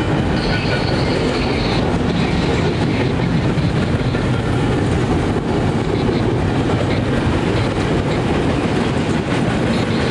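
Double-stack intermodal freight train's cars rolling past close by: a loud, steady rumble and rattle of wheels on rail. A thin high wheel squeal comes and goes in the first two seconds.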